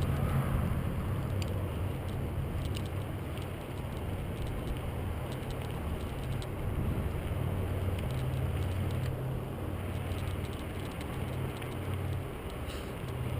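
Bicycle riding along a paved path: a steady low rumble of wind and tyres rolling on a GoPro's microphone, with a few faint ticks.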